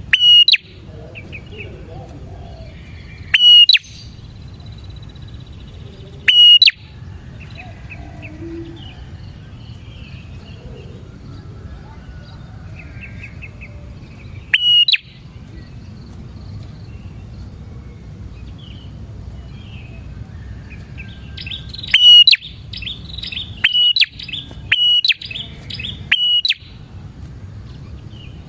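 Prinia (prenjak) calling: loud, sharp high chirps, single calls every few seconds, then a quick run of them a few seconds from the end.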